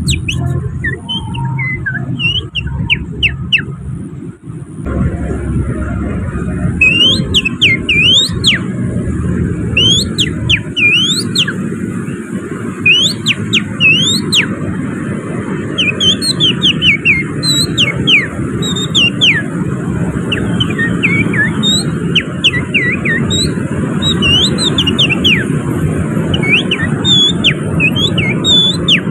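Hand-made whistling imitating an oriental magpie-robin's song with canary-like phrases: rapid chirps that sweep sharply up and down, several a second, over a steady rumble of traffic that grows louder about five seconds in.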